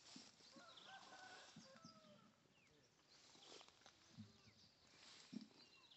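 Faint bird calls, short held notes and quick chirps, over light rustling of leaves.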